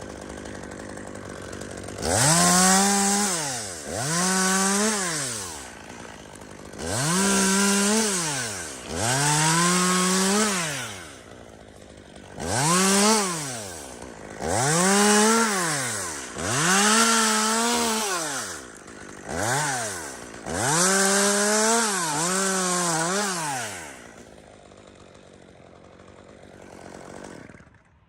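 Two-stroke chainsaw revved up to full throttle about ten times, each burst rising in pitch, holding and falling back to idle. This is typical of a saw cutting through spruce limbs. Near the end it settles at idle and then stops.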